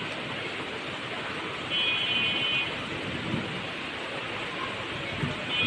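Rain falling in a steady hiss, with a high-pitched tone of about a second cutting in near the middle.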